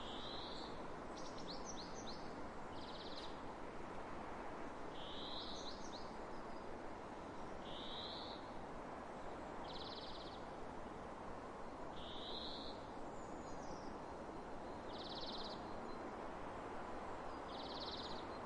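Steady wind over open fields, with a bird repeating a short, high call about every two and a half seconds, some calls buzzy, and a few fainter higher chirps between them.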